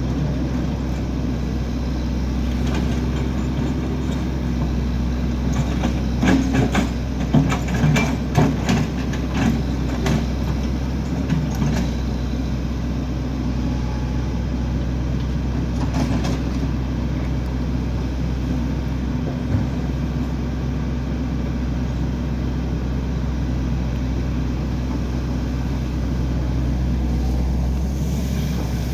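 Heavy machine engine running steadily, with a cluster of clanks and knocks between about 6 and 12 seconds in.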